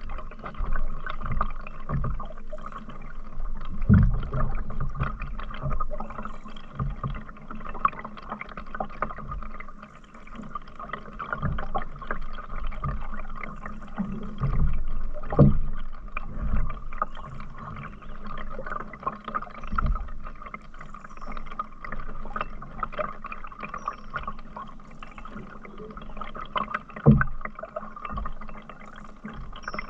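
Canoe paddled along a river: water gurgling and splashing around the paddle and hull, with occasional low knocks on the canoe.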